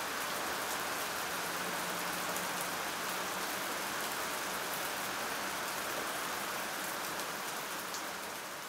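Steady rain falling, an even hiss of rain on a hard surface, easing off slightly near the end.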